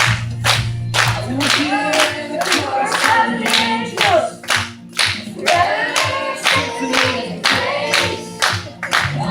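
Children's choir singing a gospel song, with hand claps keeping a steady beat about twice a second.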